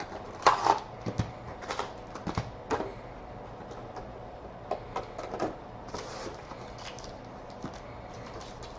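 Trading-card box and packaging being handled and opened by hand: a string of irregular clicks, taps and crinkles, the loudest about half a second in.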